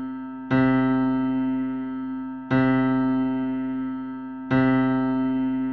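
Sonification of the TRAPPIST-1 planetary system: the same electric-piano-like chord is struck three times, about two seconds apart, each ringing and slowly fading.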